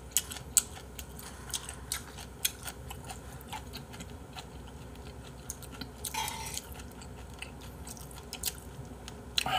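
Close-miked chewing and wet mouth sounds of a person eating spicy seafood soup with rice, broken by many small sharp clicks, with the occasional light tap of a metal spoon against the bowl.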